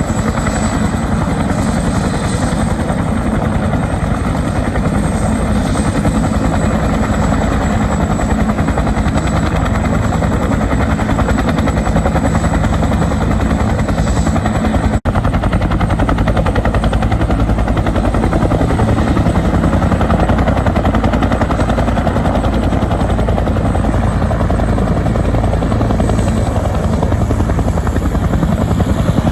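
Military helicopter running loud and steady: rapid rotor beat under a thin high turbine whine. The sound cuts out for an instant about halfway through.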